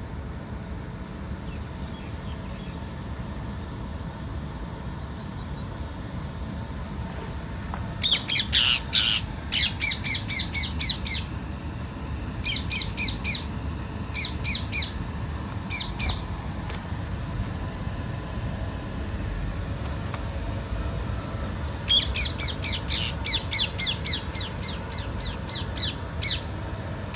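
Parrots squawking: runs of quick, harsh, repeated calls in three bouts, about eight seconds in, around the middle, and again near the end, over a steady low rumble.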